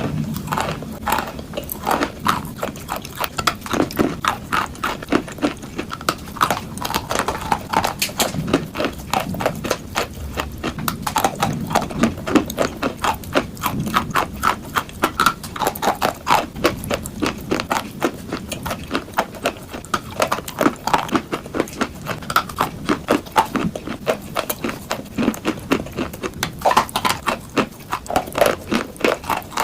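Chalk being bitten and chewed: a quick, uneven run of sharp crunches, several a second, without a break.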